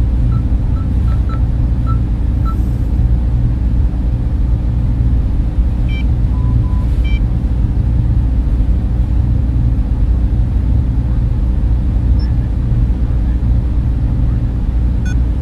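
Server room cooling fans running in a steady, loud hum that is deepest in the low end. A few faint short beeps sound over it in the first half.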